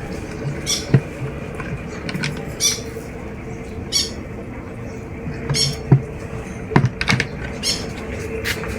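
Pet birds giving short, harsh squawks, about half a dozen spread over several seconds, with a few sharp knocks among them.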